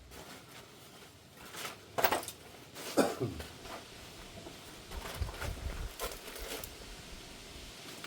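Metal hand tools clinking and clanking against metal while working on a car's front strut and its top nut, with two sharp loud knocks about two and three seconds in and a further run of clinks near the end.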